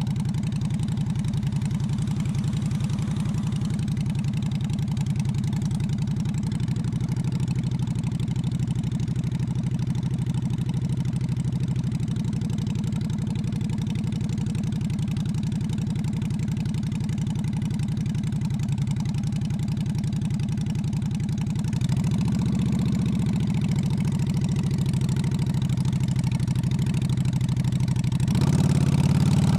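Honda Shadow V-twin motorcycle engine running steadily at a low, even idle-like note. The note changes about three quarters of the way in and the engine grows louder near the end.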